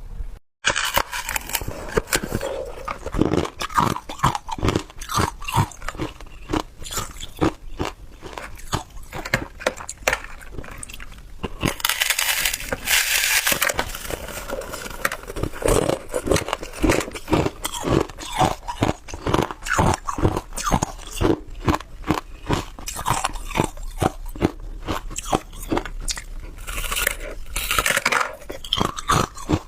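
Hard ice being bitten and chewed close to the microphone: a fast, continuous run of sharp, crackling crunches as the ice cubes break between the teeth.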